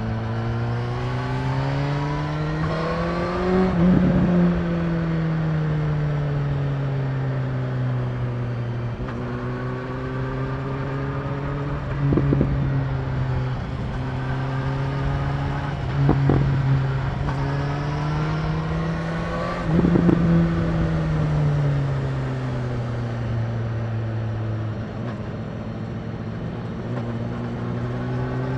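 BMW S1000R's inline-four engine under way, its revs climbing twice to a peak and falling back, with long steadier stretches between and a few sharp cracks around the middle. Wind rushes over the rider-worn microphone throughout.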